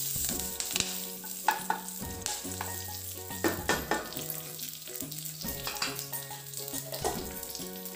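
Cumin seeds and curry leaves sizzling in hot oil in a nonstick pan, with a wooden spatula scraping and stirring now and then. A soft background music bed with slow, changing notes runs underneath.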